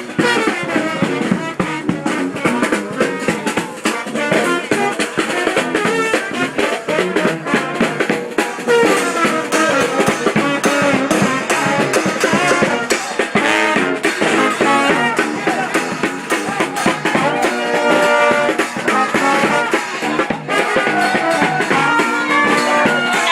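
New Orleans brass band playing, with horns over a steady drum beat.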